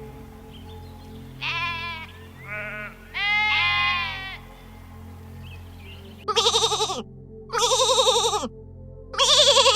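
Livestock bleating: a few shorter calls in the first half, then three louder, quavering bleats in the second half, each lasting about a second, the last two dropping in pitch as they end.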